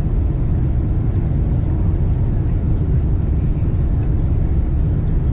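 Steady low rumble of airliner cabin noise, even throughout with no distinct events.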